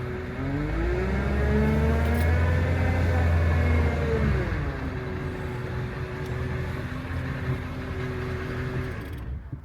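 2001 Ford F-350's 7.3-litre Power Stroke turbo-diesel V8 revving up for a few seconds, dropping back to idle, then cutting out suddenly near the end as it stalls. The owners suspect the alternator is not putting out enough charge, or that a starter solenoid that is not bolted down is shaking loose.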